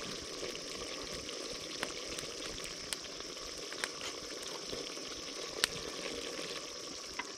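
Pork curry cooking in a pot: a steady hiss of simmering and sizzling, with a few light clicks.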